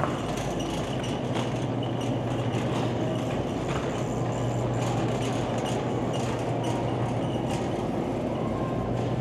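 Busy warehouse-store ambience: a steady low mechanical hum under a constant noisy background of the crowd, with scattered clicks and clatter.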